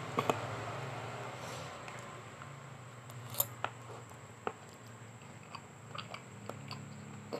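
A couple of metal cutlery clicks against a plate at the start, then quiet chewing of a mouthful of egg, with scattered small mouth clicks.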